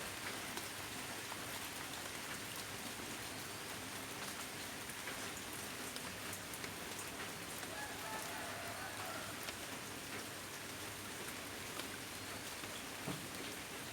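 Steady heavy rain falling, an even hiss of drops on surfaces.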